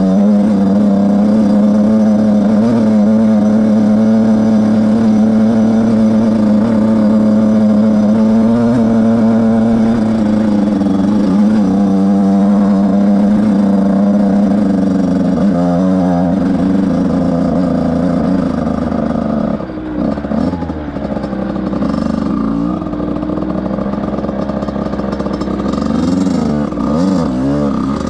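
Beta RR 50 two-stroke engine heard from on the bike while riding, held at steady high revs, then revving up and down with the throttle from about two-thirds of the way in.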